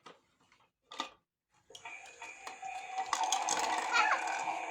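A click about a second in, then a toy washing machine's small motor starts, running with a steady whine and rapid ticking as the drum spins. It is in its self-unloading spin, throwing the washing out of the drum.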